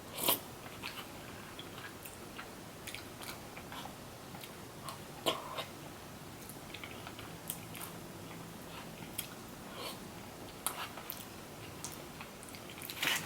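A person biting and chewing food close to the microphone: soft, irregular mouth clicks with an occasional louder crunch, the loudest near the start and about five seconds in.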